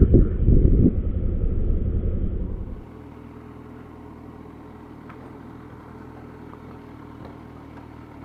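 Motorcycle riding noise, a loud low rumble of engine and wind with a few surges, that drops abruptly just before three seconds in to a much quieter, steady low engine hum.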